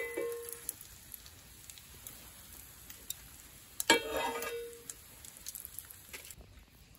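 Bread frying in oil in a cast iron skillet on a portable gas stove, a low steady sizzle. A metal clank with a short ringing tone comes at the start, and a sharp click with a brief ring comes about four seconds in as the stove is worked by hand. The faint hiss drops away about six seconds in.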